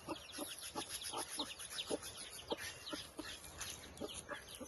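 Hen, her chicks and ducks calling together: a rapid run of short high peeps from the chicks over low clucking and quacking calls.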